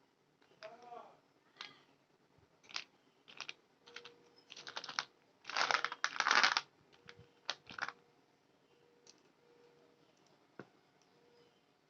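A run of short scratchy strokes on paper, as from drawing or colouring, irregularly spaced, with the loudest, longest strokes a little past the middle.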